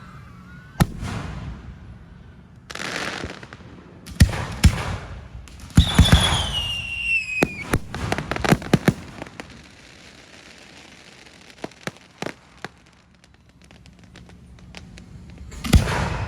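Hand-fired aerial fireworks bursting in sharp, loud bangs, with hissing launches between them. About six seconds in, a whistle falls in pitch, followed by a quick flurry of cracks. A few scattered cracks come later, and one more loud bang near the end.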